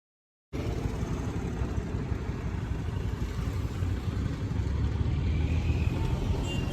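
Vespa scooter's single-cylinder engine running steadily with a low, uneven rumble, starting abruptly about half a second in.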